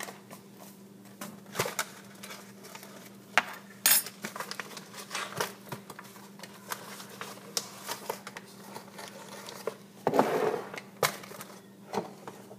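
Metal spoon clinking and tapping against a cup and a sugar container in scattered, irregular clicks while sugar is scooped, with a longer scraping rustle about ten seconds in.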